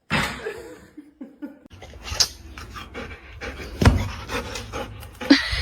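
A dog panting hard in quick rough breaths, with a few sharp knocks or thumps, the loudest about two-thirds of the way through.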